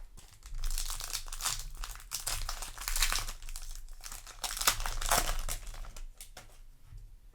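Foil booster pack wrapper crinkling and rustling in the hands as it is handled and torn open, in irregular bursts with a few louder swells.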